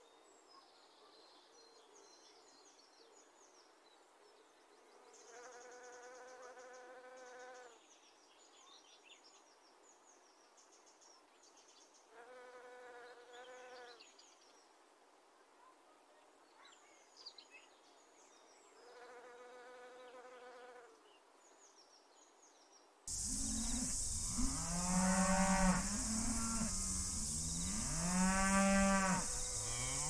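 Cattle mooing: three faint, drawn-out moos several seconds apart. Then, about 23 seconds in, much louder moos over a steady high buzz of insects.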